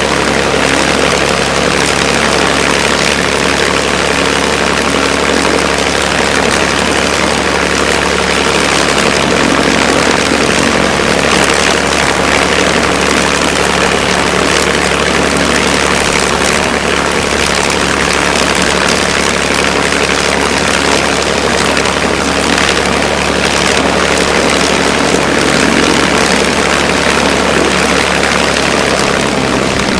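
Packard-built Rolls-Royce Merlin V-1650 supercharged V-12 of a P-51D Mustang running loud and steady on the ground, the propeller turning.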